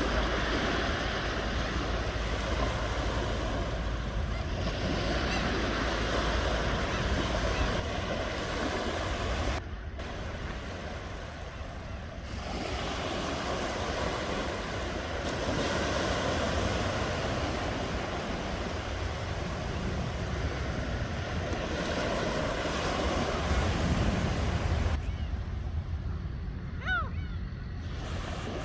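Ocean waves washing on the shore, a steady rush that swells and eases, dipping quieter about ten seconds in. A faint, brief, high gliding call sounds near the end.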